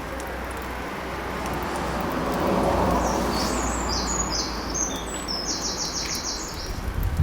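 A small bird chirps high notes in the second half, ending in a quick run of repeated chirps. Under it runs a steady rushing background noise that swells two to three seconds in.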